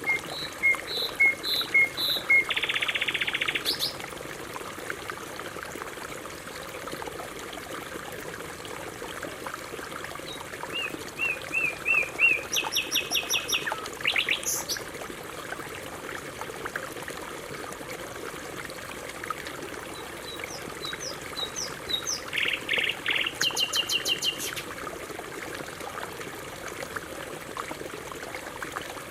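Canary singing in three short bouts of repeated chirps and fast trills, roughly ten seconds apart, over a steady trickle of running water.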